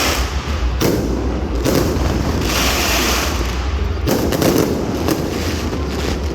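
Aerial fireworks bursting, with sharp bangs about a second in and again about four seconds in, and crackling bursts in between, over a steady low rumble.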